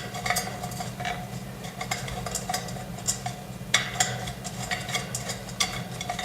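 Parts of a steel-framed flat-pack TV stand being handled and pushed into place: irregular light clinks, clicks and scrapes over a steady low hum.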